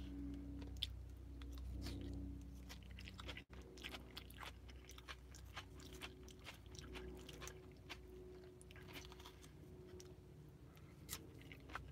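Close-up chewing and biting of a shrimp and rice bowl, with many small clicks as the fork picks at the food and bowl, over a low steady hum.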